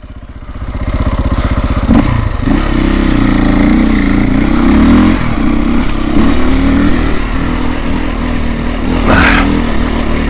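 Dirt bike engine ticking over, then revved up about a second in and pulling hard under load as the bike climbs a loose hill.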